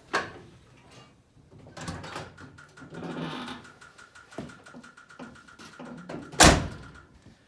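Small clicks and knocks around a Chevy square body pickup, with a thin high tone running through the middle, then one loud thump of the truck door slamming shut near the end.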